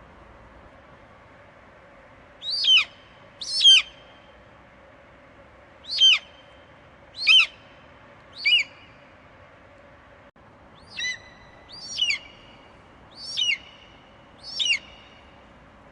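Eagle screeching in a series of nine short calls, each falling in pitch, about one every second or so with a brief pause midway.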